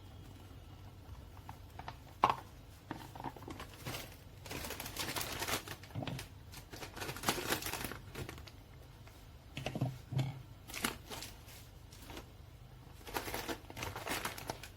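Bag crinkling in several rustling stretches, with scattered light clicks and knocks, as flour is measured out into a mixing bowl.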